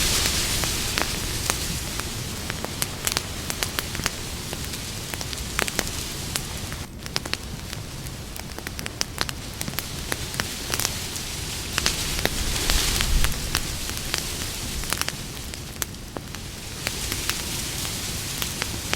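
Campfire burning: a steady hiss with many sharp snaps and pops from the burning wood, swelling into a louder rush of hiss near the start and again about two-thirds of the way through.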